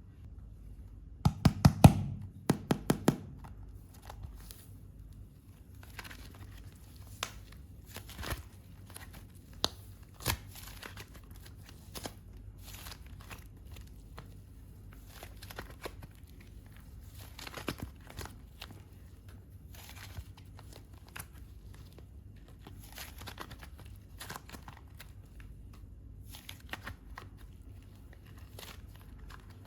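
Modelling clay handled by hand: soft tearing and crinkling sounds with scattered small clicks. A quick run of sharp knocks a second or two in is the loudest part.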